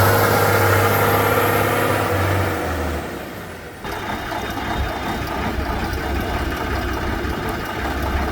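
Heavy off-road truck engine running under load, loudest at the start and dying away over about three seconds. After an abrupt break near the middle, a lower, rougher engine rumble with noise carries on.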